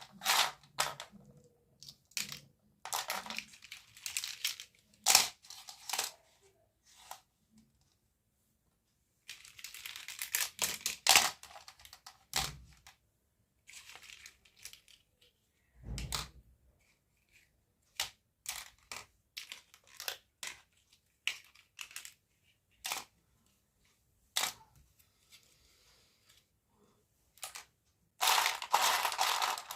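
Small plastic toy pieces being handled, tapped and clicked into place, with short bursts of rustling plastic packaging and a couple of dull thumps.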